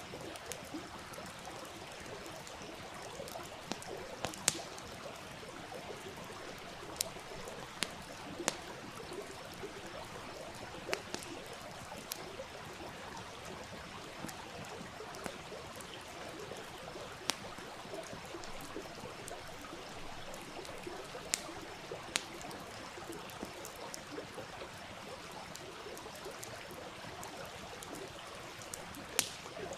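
Steady rushing and trickling of a stream, with a campfire's sharp crackles and pops at irregular intervals.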